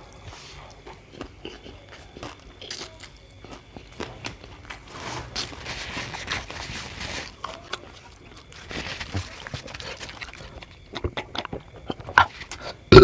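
Close-miked eating sounds: chewing and crunching with small wet mouth clicks, coming in scattered bursts.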